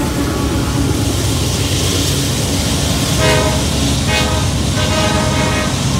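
Freight train rolling past a grade crossing with a steady rumble. From about three seconds in, a horn sounds in several short blasts.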